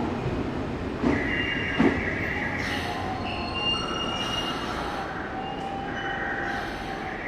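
Nankai electric train moving slowly through the station with its wheels squealing: several high, steady screeching tones that come and go and change pitch over the train's rumble. Two sharp knocks sound about 1 and 2 seconds in.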